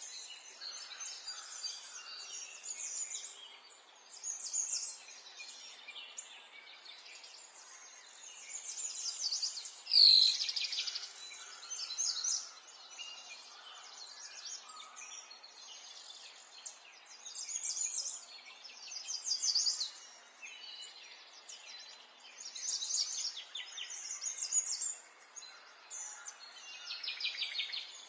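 Several birds singing and chirping in repeated short phrases over faint outdoor background noise. About ten seconds in there is one louder, sudden sound, a sharp chirp or knock.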